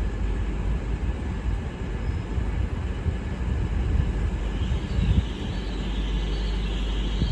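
Great Western Railway Intercity Express Train (IET) running into a station platform: a steady low rumble, joined by a brighter hiss from about four seconds in.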